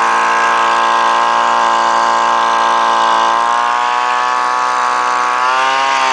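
Gas leaf blower engine running steadily as it warms up just after a cold start, its pitch wavering down slightly near the end.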